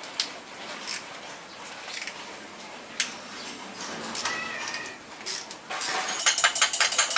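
Clinking and clattering of small hard objects, with a short high-pitched call about four seconds in and a fast run of sharp clinks near the end.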